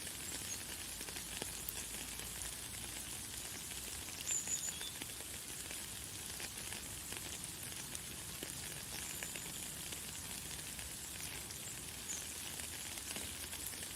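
Light, fine rain falling steadily, a dense soft hiss of small drops. A few short, high bird chirps sound over it, the clearest about four seconds in.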